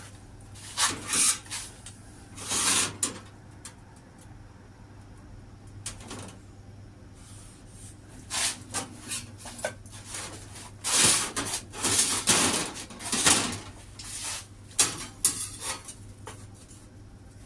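Irregular scraping and rubbing strokes with a few knocks from a steel door panel being handled and worked on the bench, over a faint steady low hum.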